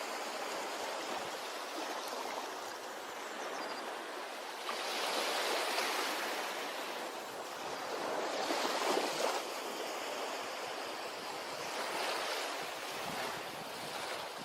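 Ocean waves breaking and washing up a beach: a steady rush of surf that swells three times, the loudest surge about nine seconds in.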